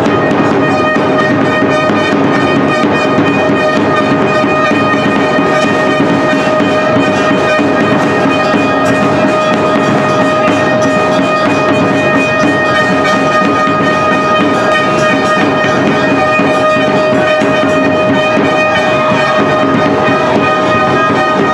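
Brass band music with trumpets and drums playing, over a long-held note.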